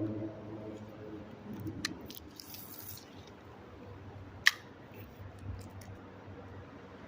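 Background music fading out at the start, then a low steady hum with a few sharp clicks and a brief hiss; the loudest is a single sharp click about four and a half seconds in.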